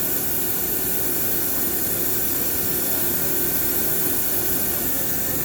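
NTC CNC vertical machining center running its program, a steady machine hum with several held tones under a steady high hiss.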